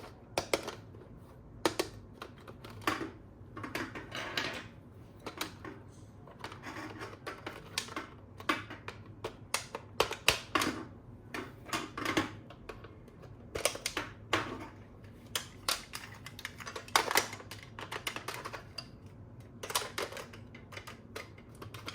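Irregular sharp clicks and taps of hard plastic toy parts and packaging being handled and fitted together, some in quick clusters.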